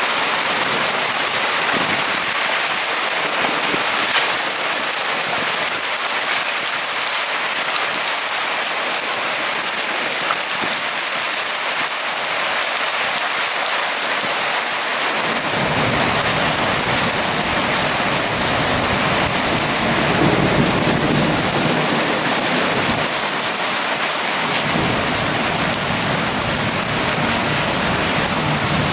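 Steady rain hissing down during a thunderstorm. About halfway through, a long low rumble of thunder sets in and rolls on, fades briefly, then returns near the end.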